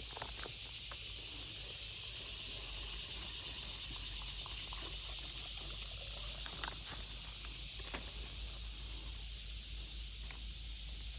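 Steady high-pitched hiss of insects singing, with a few faint ticks.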